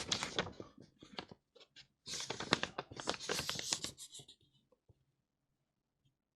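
Handling noises at a workbench: a string of light clicks followed by scratchy rustling, stopping about four seconds in.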